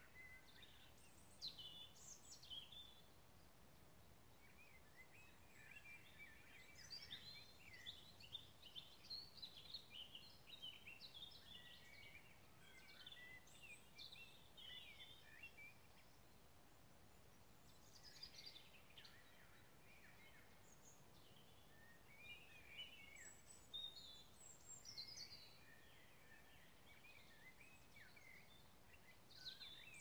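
Faint woodland birdsong: birds chirping on and off over a quiet, steady background hiss.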